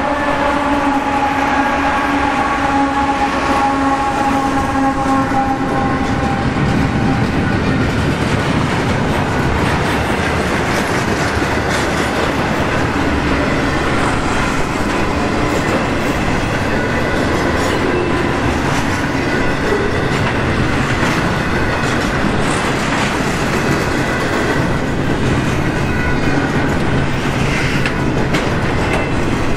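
A diesel locomotive's air horn sounds as the locomotives move away and fades out about six seconds in. After that comes the steady rumble and wheel noise of double-stack container well cars rolling past at speed.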